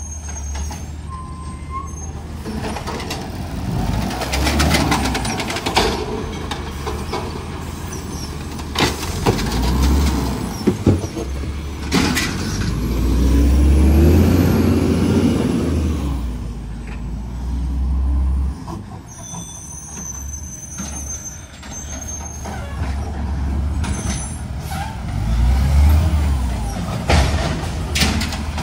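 Garbage truck running, its engine rising to its loudest about halfway through, with a few sharp clanks just before and short bursts of air hiss.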